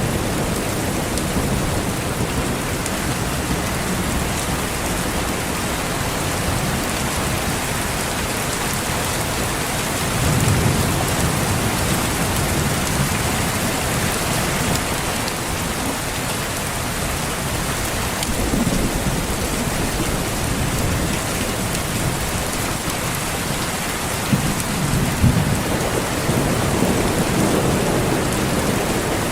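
Steady rain falling, with low rolls of distant thunder that swell up several times: about ten seconds in, again around eighteen seconds, and a longer roll near the end.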